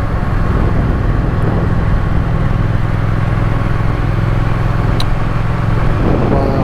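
Triumph Speed Twin's parallel-twin engine running steadily as the motorcycle rides at an even pace, with one brief click about five seconds in.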